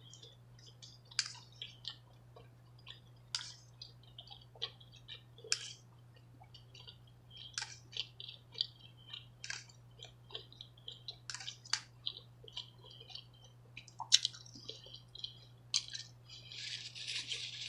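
Close-miked chewing of steak tips and loaded baked potato: irregular wet mouth clicks and smacks, a few a second, over a steady low hum. A hiss rises near the end.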